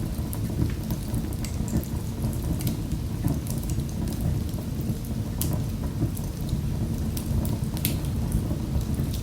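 Wood fire in a fireplace crackling: a steady low rumble of flames with frequent sharp pops and snaps.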